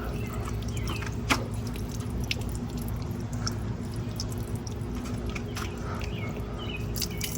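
Coolant dripping and trickling out of a Ford Crown Victoria's cooling system as it drains, with small scattered drips over a steady low hum.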